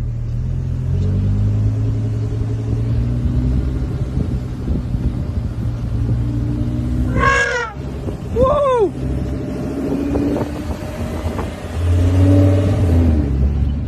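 A car engine's steady low rumble, swelling near the end. Two short pitched sounds that rise and fall cut in about seven and eight and a half seconds in.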